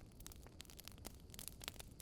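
Wood campfire crackling quietly: many small, sharp, irregular pops and snaps over a low, steady rumble.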